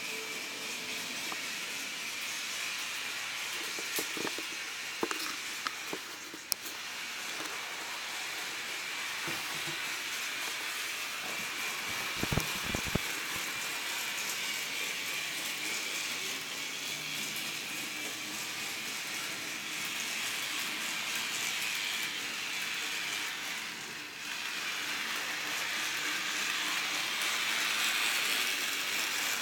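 Toy train running on its track around a Christmas tree: a steady whirring hiss with a few sharp clicks along the way.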